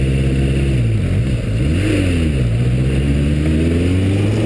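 Motorcycle engine through a 4-into-1 exhaust under way: its pitch drops about a second in at a gear change, then climbs steadily as the bike accelerates.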